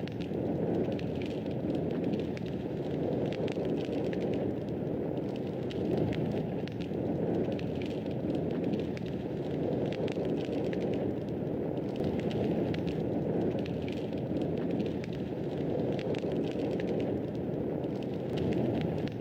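Wood fire burning in a fireplace: a steady low rush of flames with frequent small crackles and pops throughout.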